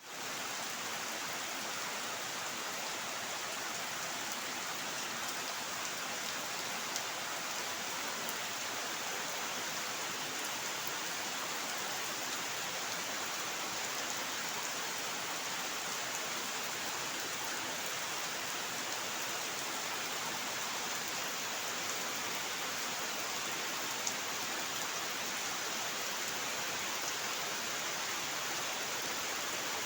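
Steady rain falling, an even hiss without let-up, with a couple of sharper single drop ticks.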